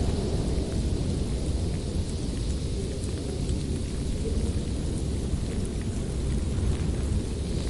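Strong winter wind blowing steadily, mostly a deep rumble with a fainter hiss above it.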